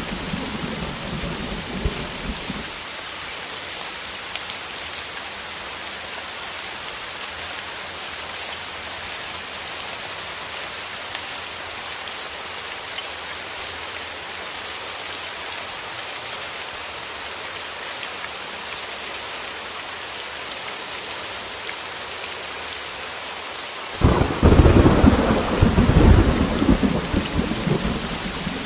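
Heavy rain with a steady hiss, and thunder: a rumble dies away in the first couple of seconds, then a sudden loud thunderclap near the end rolls on for about four seconds.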